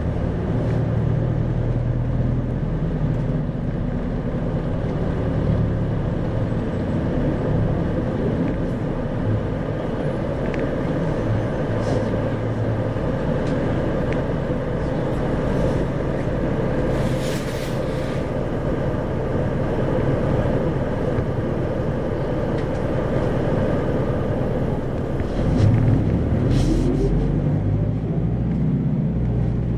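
Interior running sound of an Isuzu 2RG-LV290N4 city bus on the move: steady diesel engine and road noise, the engine note climbing near the end as it accelerates. Brief hisses come about halfway through and again near the end.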